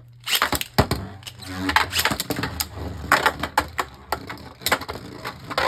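Two Beyblade Burst spinning tops, Eclipse Genesis and Glyph Dragon, launched together a fraction of a second in. They spin and clash in a plastic stadium, with a dense run of sharp clicks and rattling as they hit each other and the stadium walls.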